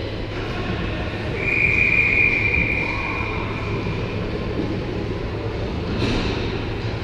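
A referee's whistle blown once, a clear high tone of about two seconds starting about a second and a half in, over the steady hum of the rink.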